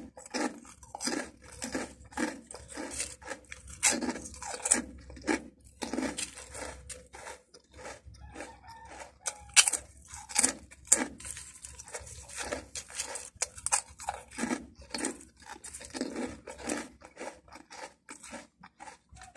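A person crunching and chewing crispy round Patata potato snack chips, with many irregular sharp crunches; the loudest bites come about ten seconds in.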